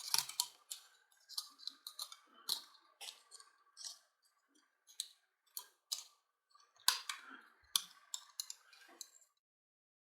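Irregular sharp clicks and small taps of hand work on an electric-motor armature being rewound with copper wire, over a faint steady tone. The sound cuts off suddenly near the end.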